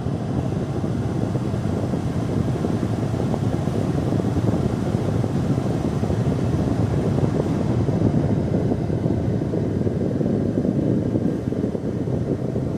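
1983 Buick Park Avenue engine idling steadily on a cold start, with the air-conditioning compressor engaged and running.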